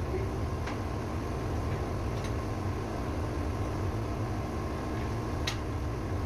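Ship's auxiliary diesel engine running steadily in the engine room, a deep even rumble with a faint steady whine. A few sharp clicks sound over it, the clearest near the end.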